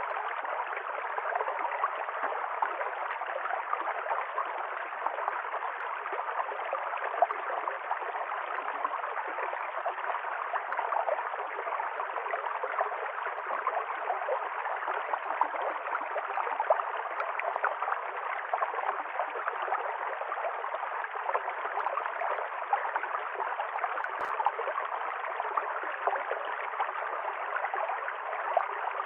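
Stream water running and gurgling over stones, a steady rush with many small splashes. There is a faint click about 24 seconds in.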